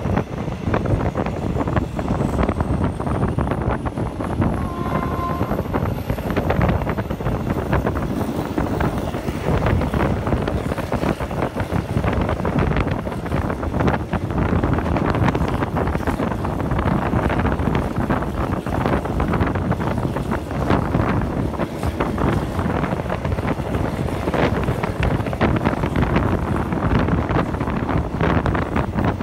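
Train carriage running along the track at speed, a steady rumble and rattle with wind buffeting the microphone.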